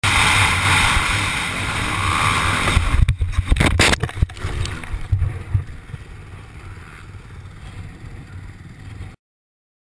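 A vehicle running at speed and then crashing: loud, steady noise, then a cluster of heavy impacts about three seconds in, followed by quieter rumbling and scraping.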